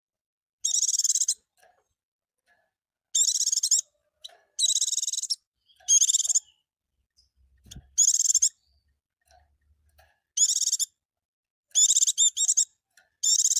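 A white-eye (pleci) singing short, high, rapid twittering phrases, about eight of them, each under a second long with brief pauses between them.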